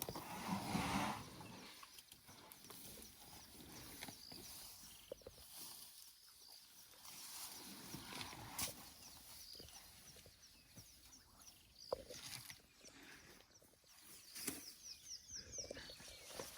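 African elephant feeding on wet grass: crackles and soft tearing and chewing sounds, with a louder noisy burst about a second in.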